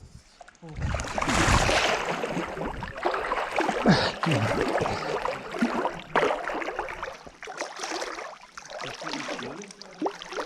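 Water splashing as a person plunges into a rock pool, loudest about a second in, then continuing splashing and sloshing as they move through the water.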